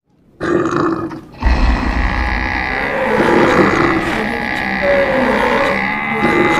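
Stampede sound effect: a single animal call about half a second in. Then, from about a second and a half, a steady low rumble of running hooves with a mix of animal calls over it.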